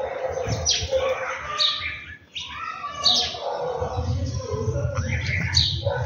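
Birds chirping: short calls that sweep down in pitch come every second or so, with other, softer calls beneath them. A low rumble comes in a little over halfway through.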